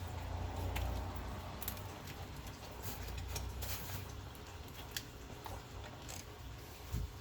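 Scattered small plastic clicks and ticks from hands working an electrical connector and wiring harness loose in a car's engine bay, over a low rumble of handling noise, with a dull thump near the end.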